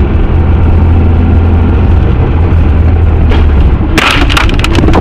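Loud, steady low rumble of a vehicle on the move, with a quick cluster of sharp knocks and cracks about four seconds in.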